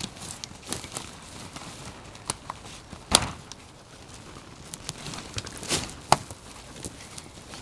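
Scattered, irregular clicks and knocks with soft rustling, from handling a tent being pitched.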